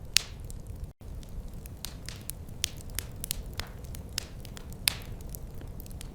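Wood fire crackling: irregular sharp pops and snaps, several a second, over a low steady rumble, with a split-second dropout about a second in.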